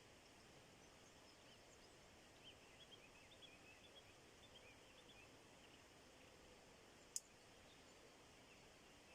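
Faint, quick chirps of small birds over a quiet background hiss, with one sharp click about seven seconds in.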